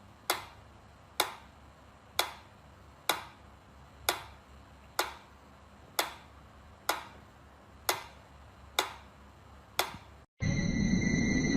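Sharp ticks at an even pace of about one a second, eleven in all, like a clock ticking. Near the end it cuts to a louder steady hiss carrying high, steady whining tones.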